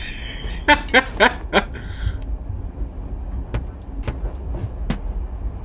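Steady low rumble of a moving train's interior from the animated film's soundtrack, with a short burst of voice about a second in and a few faint clicks later on.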